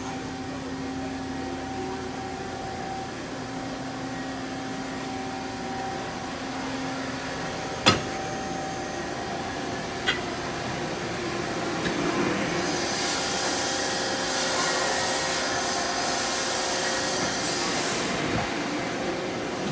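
Mazak Quick Turn 30 CNC lathe running with a steady hum. A sharp click comes about eight seconds in, and lighter clicks follow. From about halfway through, a loud hiss runs for roughly five seconds and then stops.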